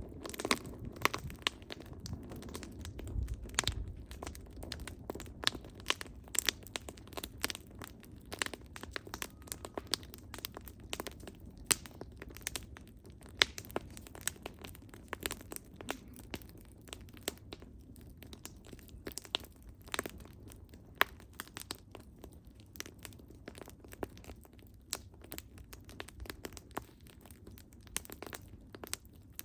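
Burning firewood crackling and popping, with irregular sharp snaps over a soft low rumble of the flames.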